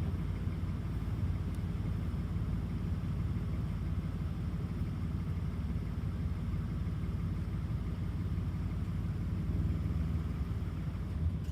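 Toyota 2GR-FE 3.5-litre V6 in a 2007 Sienna minivan idling steadily while warm, heard from the engine bay.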